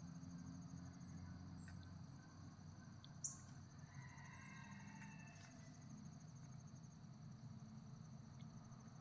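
Faint, steady high-pitched trilling of insects outdoors, with a single sharp click about three seconds in.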